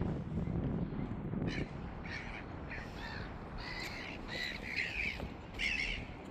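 A bird calling repeatedly: about eight short calls in quick succession, starting about a second and a half in, over a low background rumble.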